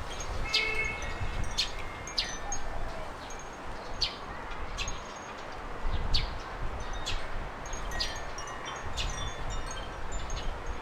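Small garden birds giving short, sharp chirps, one or two a second, over gusts of wind rumbling on the microphone.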